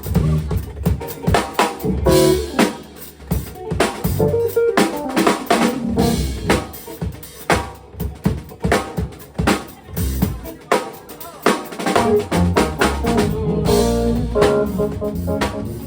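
Live band playing an instrumental groove, the drum kit loudest with dense snare and kick drum hits over held bass notes.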